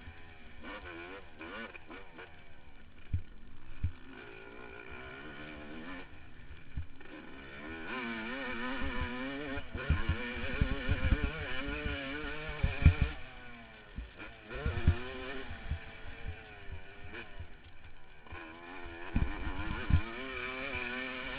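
Yamaha YZ250 two-stroke dirt bike engine revving up and down repeatedly while ridden around a motocross track, heard from a helmet camera. Low thumps keep breaking in, most of all from the middle on.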